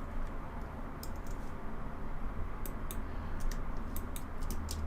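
Sparse, irregular clicks from a computer keyboard and mouse as hotkeys and selections are made, over a steady low hum.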